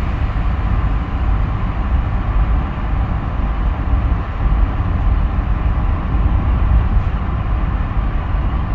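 Steady engine and road noise inside a box truck's cab while driving, a low rumble.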